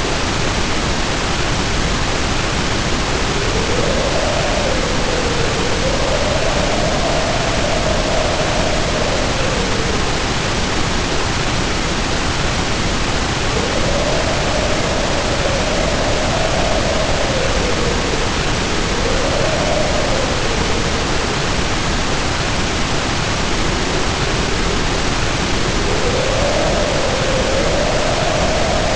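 Heavy rain pouring steadily under wind howling in slow swells, its pitch rising and falling, with the howl fading out twice for a few seconds.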